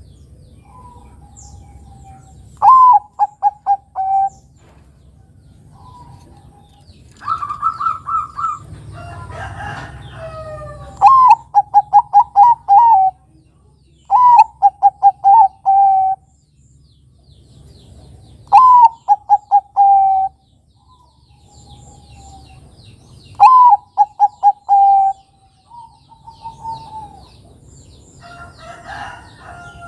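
Bangkok-type zebra doves (perkutut) cooing: five phrases about four seconds apart, each a short rising note followed by a quick run of short staccato coos. Other birds call faintly between the phrases, and a higher, held call comes about a third of the way in.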